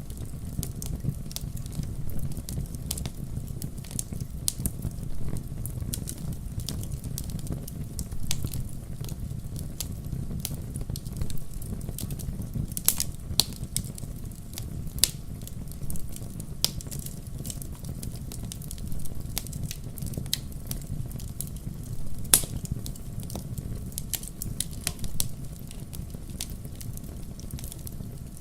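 Wood fire burning in a fireplace: a steady low rumble of the flames with irregular sharp crackles and pops from the logs, a few louder pops scattered through.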